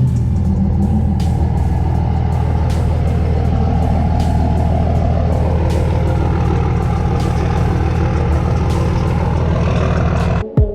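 A car engine running steadily at a low, unchanging pitch, close and loud, with no revving; it cuts off abruptly near the end.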